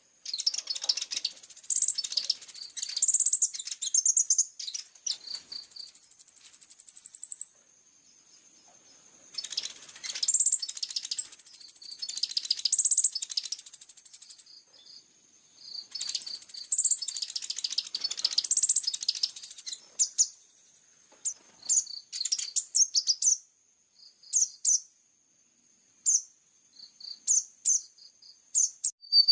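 Kolibri ninja sunbird singing: three long bursts of fast, high-pitched twittering with rapid trilled runs of repeated notes, separated by short pauses, then scattered short chirps.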